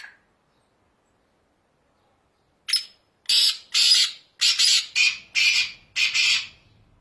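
Black francolin calling: a single short harsh note, then a run of about six loud, harsh notes in quick succession.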